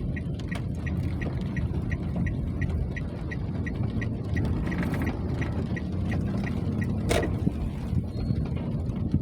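Steady rain noise, heavy in the low end, with a faint regular ticking about three times a second and one sharp click about seven seconds in.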